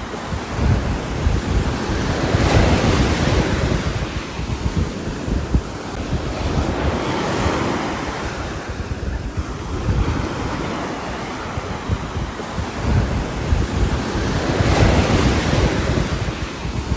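Rushing rain-and-wind ambience with a deep rumble, swelling and easing every four to five seconds in gust-like surges.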